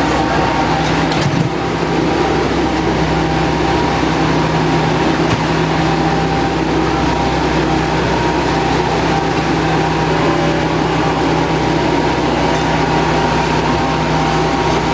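Miniature ride train running steadily along its track, a loud even rumble of engine and wheels with steady tones in it.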